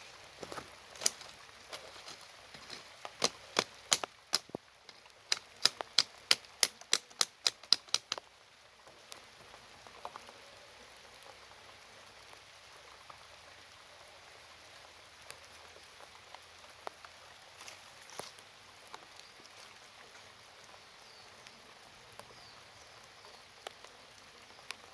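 Wooden beehive parts being handled: a rapid, uneven run of sharp clicks and knocks for about eight seconds, then only occasional clicks over a low hiss.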